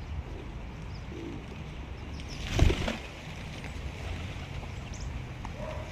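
A bird's wings flapping in one short burst about halfway through, over a steady low background rumble, with a few faint high bird chirps near the end.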